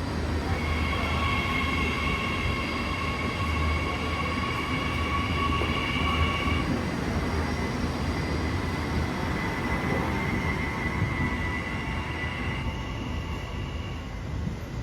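Electric suburban train moving along the platform: a low rumble under several high, steady squealing tones from the wheels on the rails, which change pitch twice.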